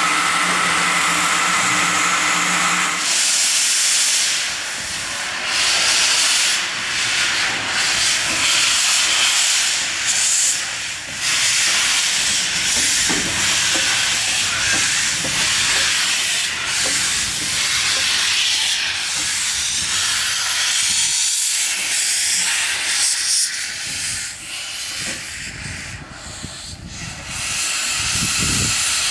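Steam locomotive whistle sounding a steady held note for the first three seconds or so, then loud hissing steam from the locomotive that swells and eases.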